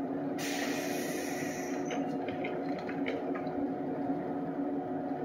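JR West 115-series electric train standing at the platform, its onboard equipment humming steadily. About half a second in, a sudden hiss of released air lasts about a second and a half, followed by a few light clicks.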